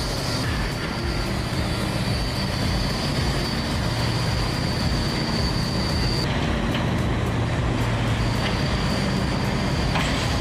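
Diesel engine of an old 2.7-yard mining power shovel running steadily with a deep drone. A thin high whine rides over it, dropping out about six seconds in and returning about two seconds later.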